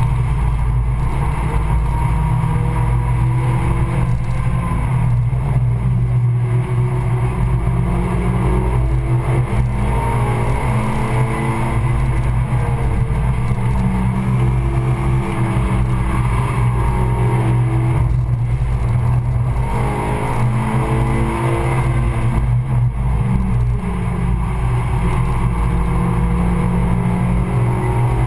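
Stage 2-tuned Suzuki Swift Sport's four-cylinder engine under hard driving on track, heard from inside the cabin. The revs rise and fall again and again over steady road and tyre noise.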